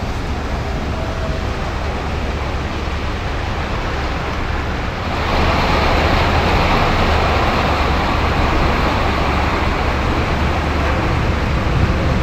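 Heavy rain pouring down in a steady loud hiss over a low rumble, growing heavier and louder about five seconds in.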